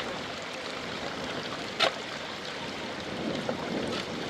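Steady water noise, with a single sharp knock about two seconds in.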